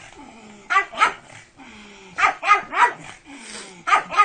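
A pug barking in short volleys of two or three sharp barks, about seven in all, with brief pauses between the volleys.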